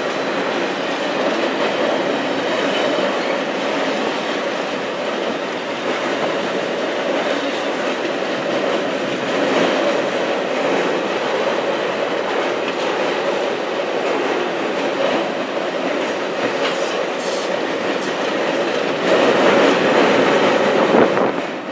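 Passenger cars of a train rolling across a steel girder bridge, a steady rolling noise of wheels on rail, briefly louder near the end.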